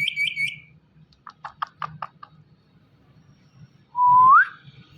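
Indian ringneck parrot calling: a short high trilled call at the start, a quick run of short chirps, then a loud whistle about four seconds in that holds and then slides upward.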